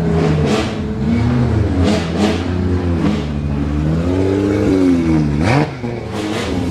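Drift car engine revving hard, its pitch rising and falling repeatedly as the throttle is worked, with several short sharp cracks, the loudest near the end as the revs drop.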